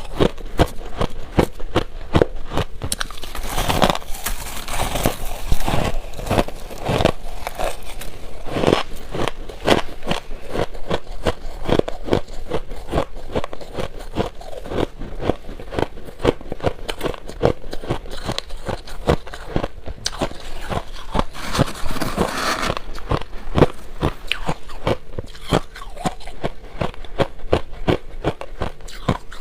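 Shaved ice being bitten and chewed close to the microphone: a steady run of irregular, crisp crunches with no pauses.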